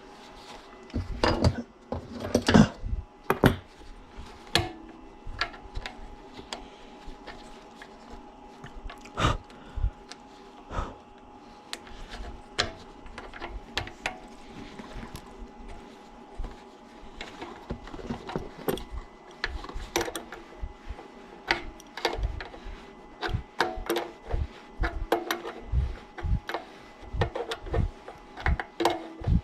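Irregular clicks, knocks and clinks of hand tools and metal parts being handled, with a faint steady hum beneath; the loudest knocks come a couple of seconds in.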